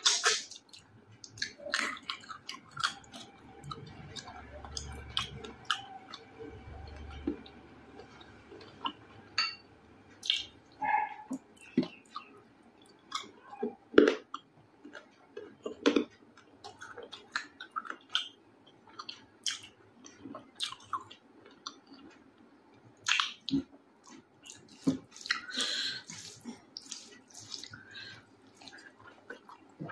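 Close-miked eating sounds: wet chewing of mouthfuls of rice with chicken kosha gravy, with many short sharp mouth clicks at irregular intervals.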